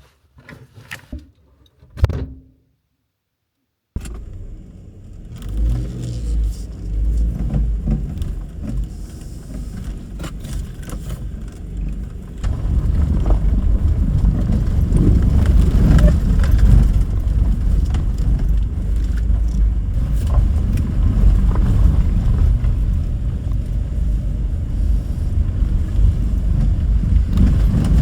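A few short knocks, then a cut to a steady low rumble like a motor vehicle on the move, which grows louder about twelve seconds in.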